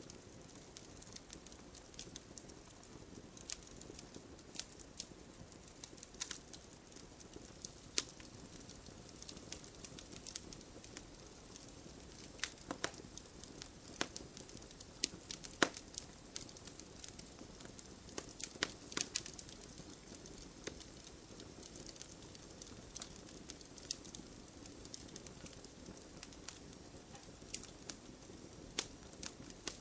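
Fireplace fire crackling: irregular sharp snaps and pops, a few close together now and then, over a soft steady hiss of the flames.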